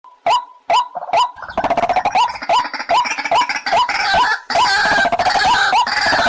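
White-breasted waterhen calling: a fast, even series of short hooked notes, about three a second, with a denser, harsher layer of calls joining in about a second and a half in.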